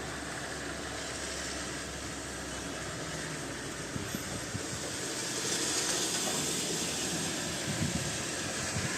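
Steady hiss of heavy rain. It grows louder and brighter about five and a half seconds in, with a few light taps scattered through.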